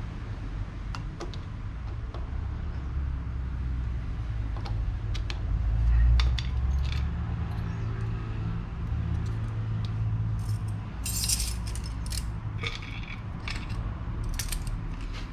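Yamaha SR400 air-cooled single-cylinder engine running with a steady low rumble that swells briefly, overlaid by quick metallic jingling and clicking that comes thickest in the second half.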